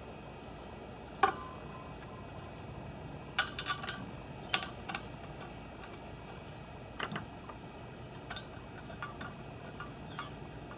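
Scattered sharp clicks and light metallic taps as bolts are handled and threaded back into the hose reel's aluminum housing: one sharp click with a brief ring about a second in, then a quick cluster of taps, then further single clicks.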